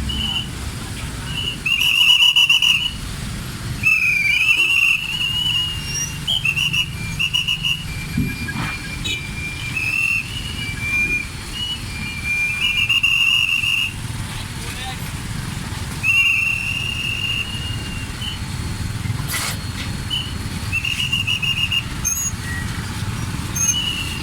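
A whistle blown again and again in short and longer blasts, over the steady low rumble of vehicle engines.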